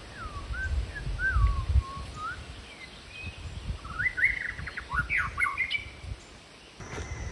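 A songbird singing slurred whistled notes, then a quicker run of rising and falling notes about four seconds in, over low rumbling wind noise on the microphone.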